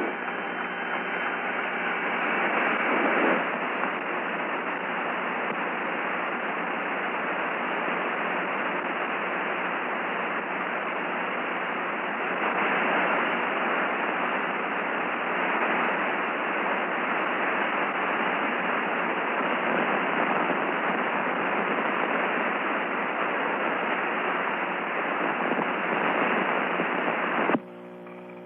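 Steady radio static hiss on the air-to-ground voice channel, with no voice on it. It cuts off abruptly about a second before the end.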